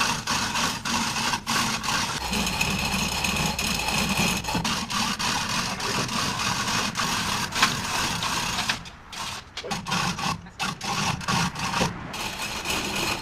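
Manual chain hoists being worked to lift and roll a boat hull over, with a stream of rapid ratcheting clicks and chain rattle under load.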